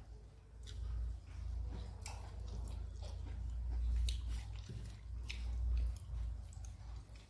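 Close-mic chewing of dry-fried okra and bitter gourd with rice, with a few sharp clicks.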